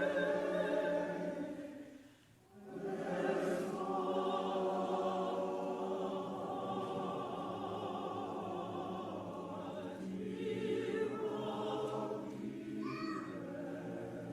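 Church choir singing a Christmas choral piece: a phrase is held and ends about two seconds in, a short breath-pause follows, and the choir comes back in with sustained voices for the rest.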